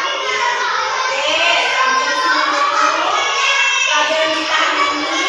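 A class of children singing together.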